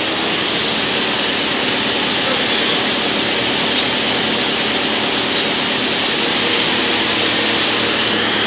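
BX218 wood chipper running steadily under power, a loud, even machine noise with a low engine hum beneath a broad hiss.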